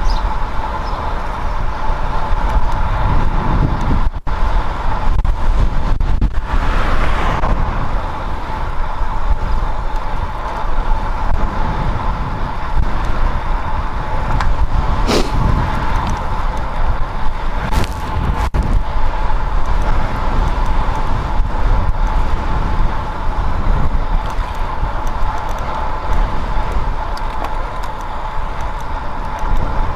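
Riding noise from a bicycle on a road with traffic: a steady rush of wind and tyres with a thin steady hum, and cars going by. A single sharp click comes about halfway through.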